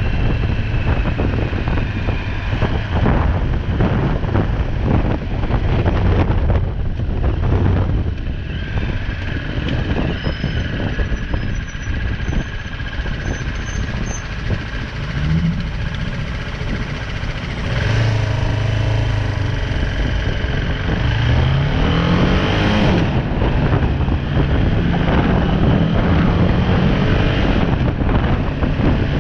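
BMW G310R's single-cylinder engine running on the move, with wind rushing over the action-camera microphone. The engine pitch climbs a few times as it accelerates, around the middle and again a few seconds later.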